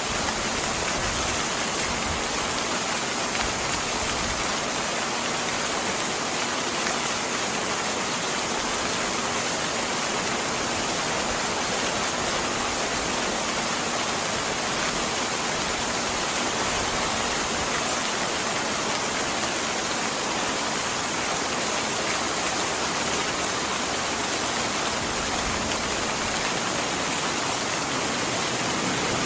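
Steady rain: a dense, even hiss with no breaks.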